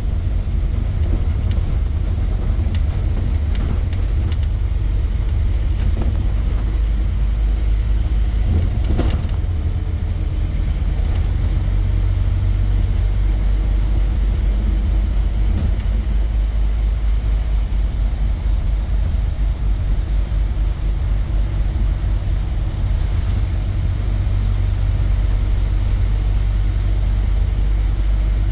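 Scania N230 bus, its five-cylinder diesel running with a steady low drone, and a brief knock about nine seconds in.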